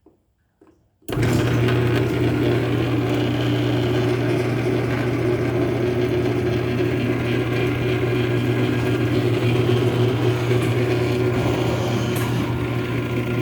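Chamberlain garage door opener motor running steadily with a low hum as it drives the door, starting about a second in and stopping at the very end.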